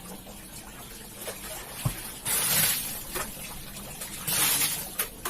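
A wet carpet being washed by hand: two short hissing strokes about two seconds apart, with a single knock shortly before the first.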